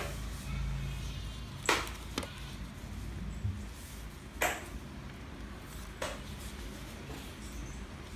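Sheet of paper being handled and creased, with four short, sharp crinkles over a low steady hum.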